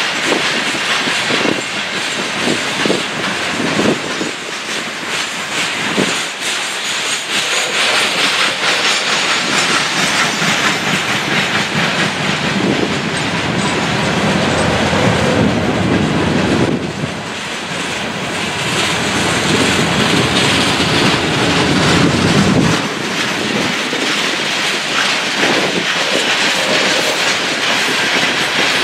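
Loaded coal hopper cars of a freight train rolling past: a steady rumble of steel wheels on rail, with wheel clicks over the rail joints, most distinct in the first several seconds.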